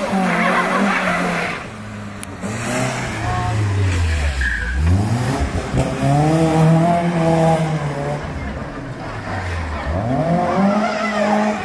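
Vauxhall Nova rally car's engine running hard: the revs drop to a low point about four seconds in, climb and hold high as it accelerates, then dip and rise again near the end.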